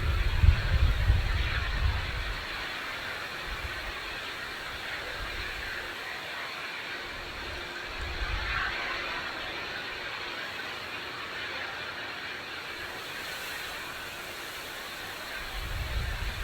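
Strong wind buffeting the microphone in low gusts, loudest at the start, about eight seconds in and near the end, over a steady rushing noise. A faint steady hum from a distant ATR 72-600 turboprop airliner on approach runs underneath.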